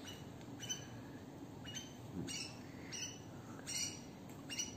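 Small pet bird chirping, a run of short high calls about every half second to one second.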